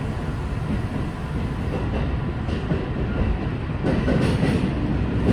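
Kintetsu 9020 series electric train running through a tunnel, heard from inside the leading car: a steady rumble of wheels on rail that grows louder, with a clatter of wheels over points about four seconds in.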